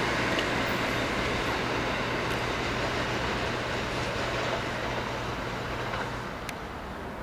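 Metro-North electric multiple-unit commuter train running away down the track, its rumble slowly fading over a steady low hum.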